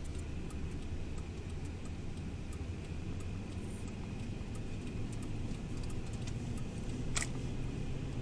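Van engine running while driving, with a steady low hum that rises in pitch over the last few seconds as it speeds up. Light ticking and a sharp click about seven seconds in.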